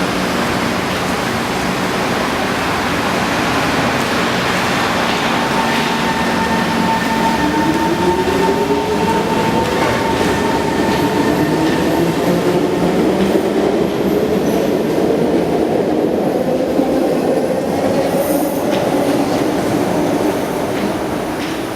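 SMRT C151 metro train pulling away from a station: the traction motors whine in a steadily rising pitch as it accelerates, over the rumble of the wheels on the rails.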